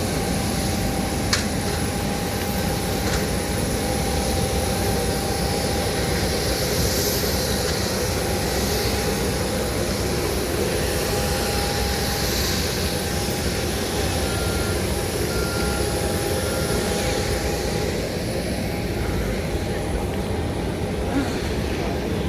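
Boeing 737-800's CFM56 jet engines and airflow heard from inside the passenger cabin: a steady noise with a constant whine over it.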